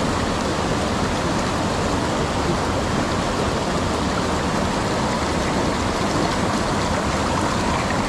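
Steady, even rush of a fast-flowing mountain stream.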